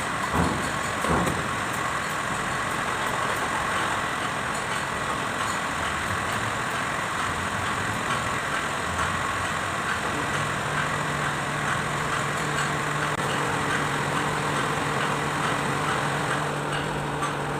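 Kubota D905 three-cylinder diesel engine running steadily. A low steady tone with overtones joins about ten seconds in.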